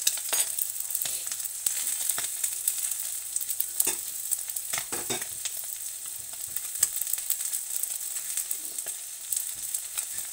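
Sardine-and-egg omelette frying in oil in a frying pan: a steady sizzle with many small pops and crackles scattered through it.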